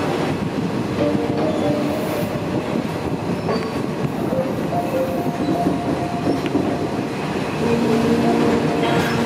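Namtok line passenger train running along the track, heard from inside a carriage: a steady rumble and rattle of the wheels on the rails, with short steady tones coming and going above it.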